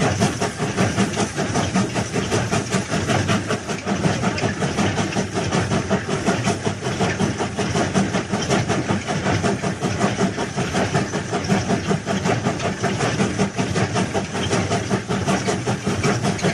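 Train running on the rails: a steady rumble and rattle that keeps going without a break.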